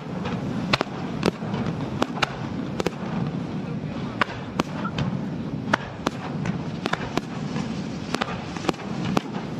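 Fireworks going off in an irregular string of sharp cracks, about two a second, over a steady low rumble and crowd murmur.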